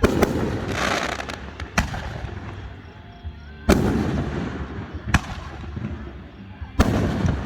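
Aerial fireworks shells bursting. There are three big booms about three seconds apart, at the start, a little before four seconds and near the end, each trailing off in a rumble. Single sharp cracks fall in between.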